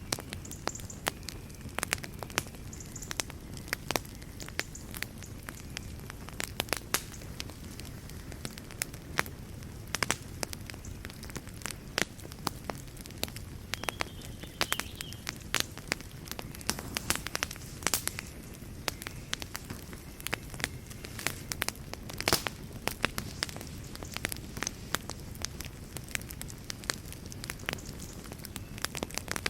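Wood fire burning in a fireplace: a steady low rumble of flames with frequent irregular crackles and sharp pops of burning wood.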